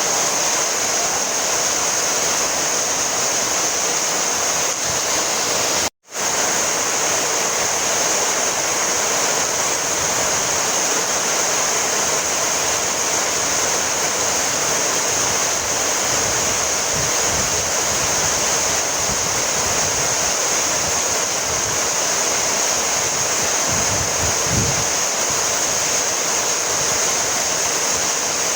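Heavy rain falling steadily: a dense, even hiss with no let-up, broken once by a split-second gap of silence about six seconds in.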